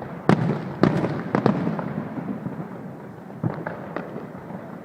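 Aerial fireworks bursting: a run of sharp bangs in the first second and a half, then a few lighter pops about three and a half seconds in, over a steady crackle.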